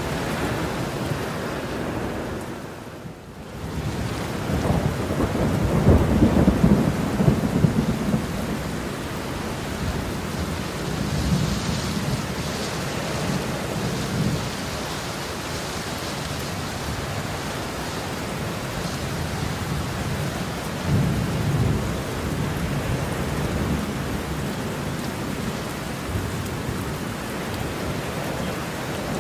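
Heavy rain falling steadily while thunder rumbles, with long low rolls about five seconds in and again about twenty-one seconds in. The rain briefly drops away about three seconds in.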